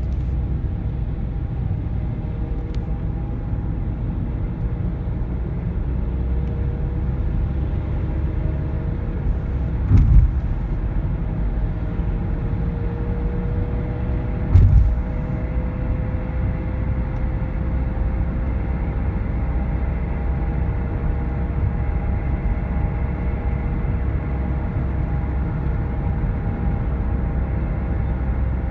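Car running on the move: a steady low rumble with a faint tone drifting slowly upward in pitch, the extraneous noise the owner hears from about 1500 rpm and up. Two short thumps come about ten and fourteen and a half seconds in.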